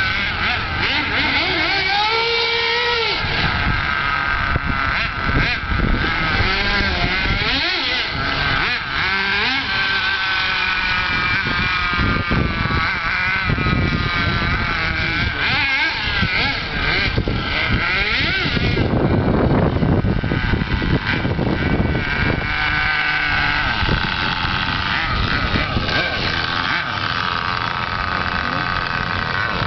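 The small combustion engine of a 1:7 scale RC Audi V8 model car with a modified exhaust runs loud and high-pitched, its pitch rising and falling as it is revved and driven.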